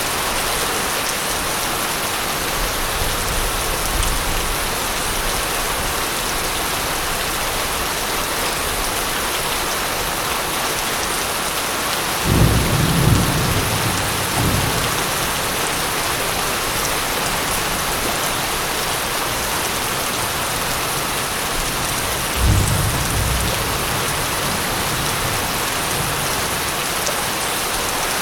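Steady heavy rain with two low rolls of thunder: one about twelve seconds in that rumbles for a couple of seconds, and a shorter one about ten seconds later.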